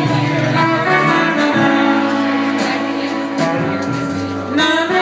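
Live band music in an instrumental passage with no singing: melodic instruments holding long notes over a sustained low tone.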